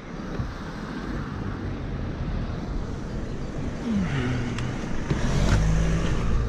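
A road vehicle's engine running with road noise, growing louder. About four seconds in the engine note falls in pitch, and near the end a steadier, louder engine hum sets in.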